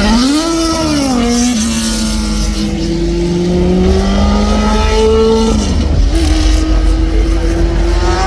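Racing car engine at high revs: its pitch climbs in the first half second, drops about a second in as it shifts, then holds a slowly rising note. It steps up and falls away again between about five and six seconds in.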